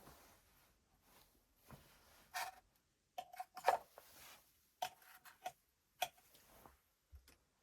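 Irregular clicks, knocks and short metallic clinks of small parts and tools being handled, several of them ringing briefly.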